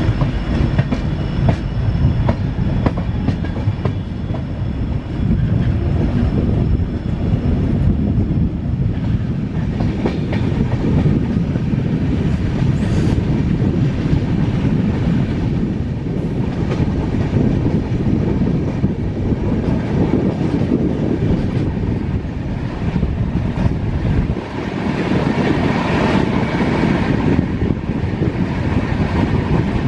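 Passenger train running on the rails: a steady low rumble of wheels on track, with a constant scatter of clicks and clatter.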